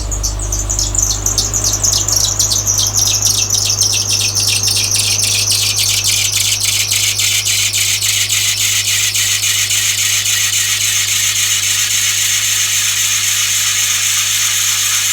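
Serpentine belt squealing on the cold-started 2.5-litre flat-four of a 2007 Subaru Impreza 2.5i: a rapid train of high-pitched chirps that quicken and drop a little in pitch over the first several seconds, then settle into a steady fast chirping over the low idle hum of the engine.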